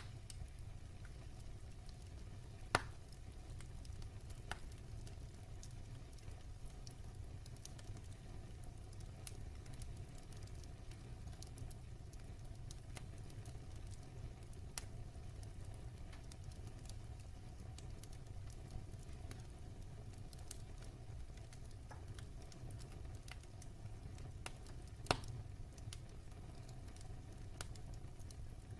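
Wood fire burning in a fireplace: a steady low rumble of the flames with scattered crackles and snaps, and two louder pops, one about three seconds in and one near the end.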